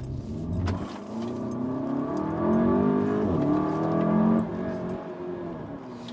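SEAT Leon Cupra's turbocharged four-cylinder engine accelerating hard, the revs climbing. They dip briefly about three seconds in, climb again, then ease off about four and a half seconds in.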